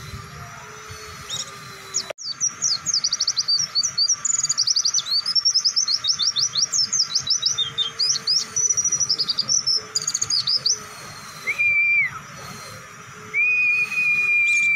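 White-eye (pleci) song. After an abrupt cut about two seconds in comes a long, fast run of high chirping notes lasting about eight seconds, the long rapid 'nembak' song. It is followed by two held whistled notes near the end, the second dropping in pitch as it stops.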